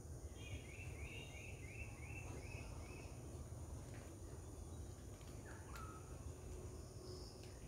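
Quiet garden ambience with a small bird calling: a quick run of about seven short rising notes in the first three seconds, and one lower note about six seconds in. A steady high hiss and a low rumble run underneath.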